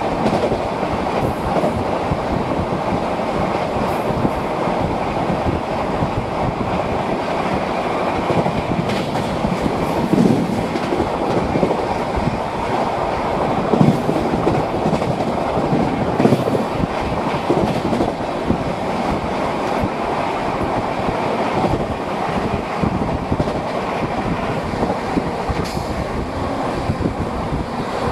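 Express train coach running at about 130 km/h, heard through an open window: a steady rolling rumble and clatter of the wheels on the rails, with a few louder clunks midway.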